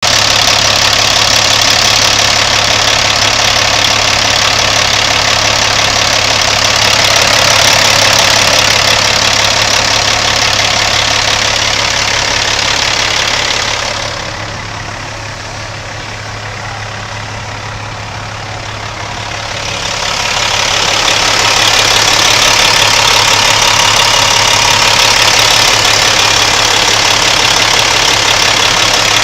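Peterbilt truck's diesel engine running at a steady idle. It turns quieter and duller for several seconds around the middle, then comes back to full level.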